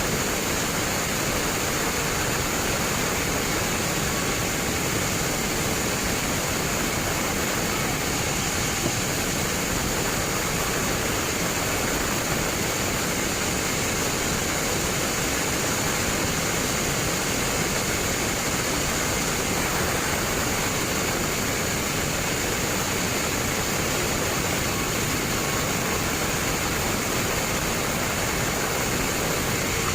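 Log band sawmill running: a steady, even rushing noise that holds at one level without a break.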